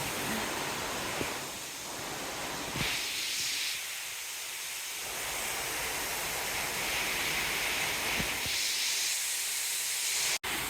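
Waterfall rushing: a steady hiss of falling water that cuts out for an instant near the end.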